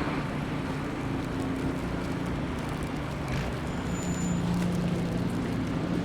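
City street traffic: a steady hum of vehicle engines and road noise, with a brief high-pitched tone about four seconds in.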